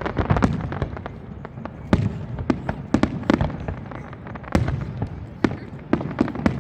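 New Year fireworks display: a rapid, irregular run of sharp bangs over a low rumble, several bursts a second.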